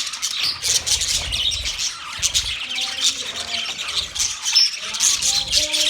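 A flock of small cage birds chirping and chattering continuously, with many overlapping short, high calls. A low rumble sits under the chirping for the first couple of seconds.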